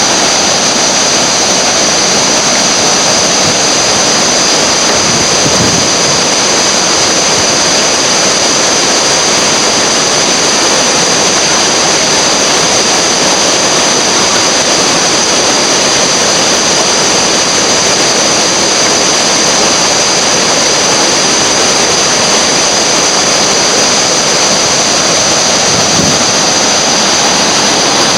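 Whitewater river rapids rushing in a steady, loud, unbroken roar.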